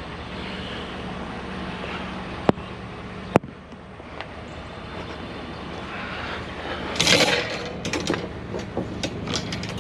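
Truck engine running steadily with a low hum. Two sharp clicks come about two and a half and three and a half seconds in, and a burst of rattling and clatter starts near the end.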